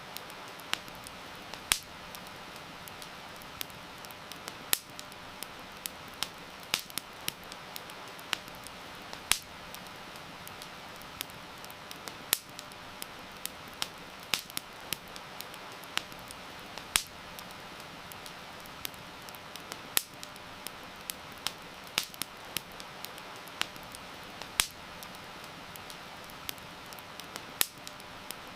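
Wood fire crackling, with sharp pops at irregular moments over a steady hiss of heavy rain.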